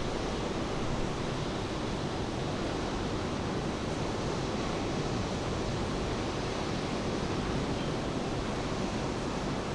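Steady rain falling, an even hiss with no breaks or swells.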